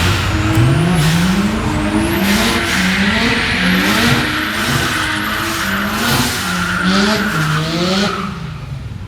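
Drag cars doing a burnout at the start line: engines revved up and down over and over, with tyres spinning and squealing for several seconds, then easing off about eight seconds in.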